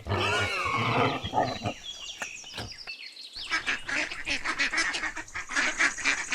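Piglets squealing and grunting in quick, high, wavering calls, with a brief break about three seconds in before the calls resume, many at once.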